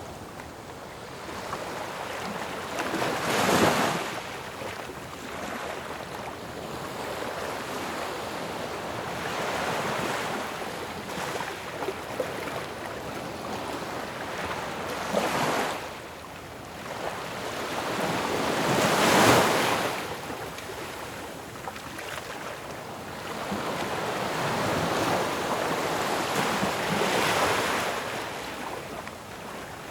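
Ocean waves crashing on a shore, a steady rush of surf that swells and ebbs as each wave breaks and washes back. The biggest breaks come a few seconds in and just past the middle.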